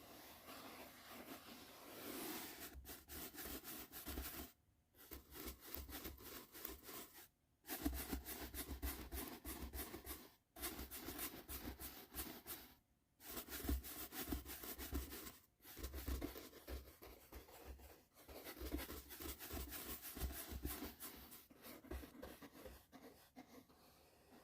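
Soft brush bristles stroking close to the microphone in repeated scratchy sweeps, with brief pauses every two to three seconds for the first part and more continuous brushing later.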